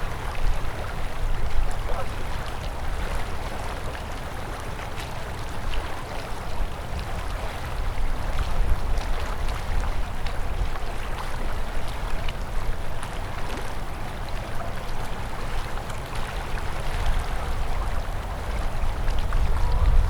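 River water flowing steadily, a continuous rushing with a low rumble underneath and faint small splashes.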